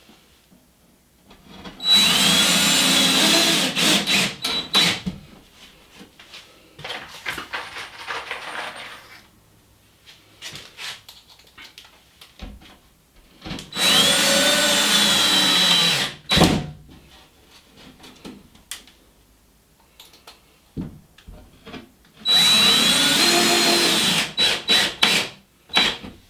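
Power drill driving screws into a drywall patch: three runs of about three seconds each, the motor whine sweeping in pitch during each run, with short clicks and handling noise between them and some stop-start trigger pulses near the end.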